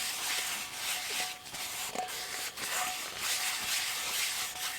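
Oily cookware being wiped out by hand: repeated rubbing strokes of the wipe against the metal surface.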